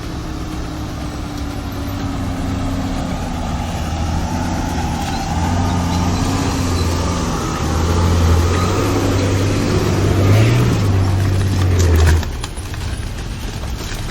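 Off-road 4x4's engine working under load, its note climbing and holding high for several seconds as the vehicle is driven over a trail obstacle, then dropping off abruptly about twelve seconds in.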